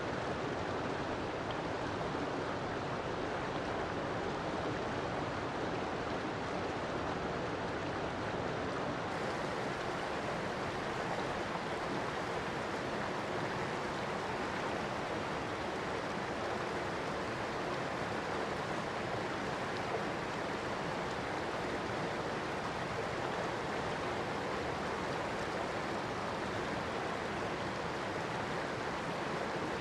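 River water flowing steadily over rocks, a continuous even rush.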